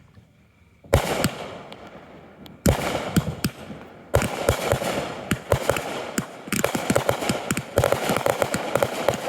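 Aerial fireworks going off: a loud burst about a second in, then further bursts that build into continuous dense crackling with many sharp pops.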